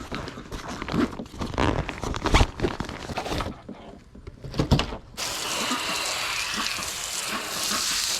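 Irregular knocks and thumps of things being handled and set down, then about five seconds in water starts running steadily, as from a tap or hose.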